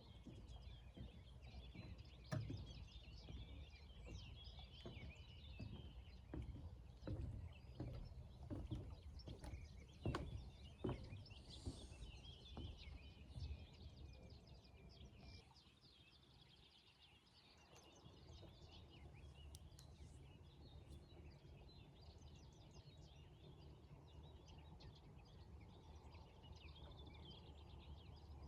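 Faint outdoor morning ambience: small birds chirping and singing over a low, steady rumble, with scattered soft knocks through the first half.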